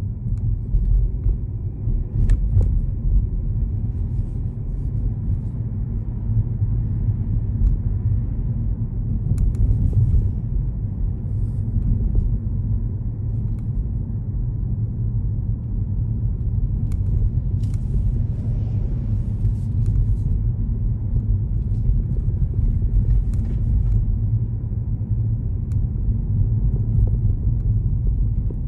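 Steady low road and engine rumble of a moving car heard from inside the cabin, with a few faint clicks.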